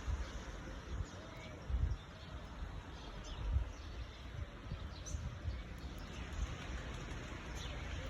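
Rainy outdoor morning ambience: a steady hiss of light rain with birds chirping faintly and one short cooing note about a second in, broken by irregular low thumps.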